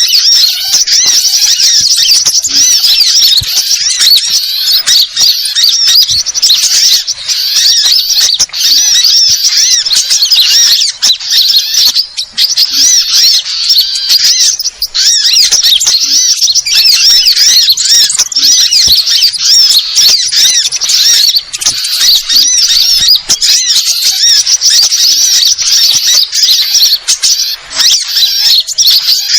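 Dense, unbroken high chirping and twittering of many small birds at once, sunbirds among them: a noisy small-bird lure recording.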